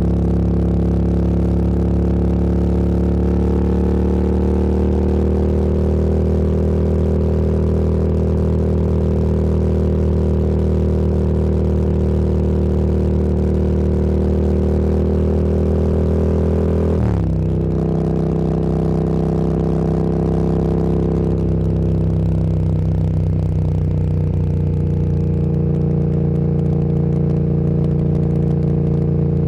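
Motorcycle engine running under steady throttle while riding, its pitch climbing slowly, then dropping suddenly a little over halfway through as the rider shifts up a gear, and holding steady after.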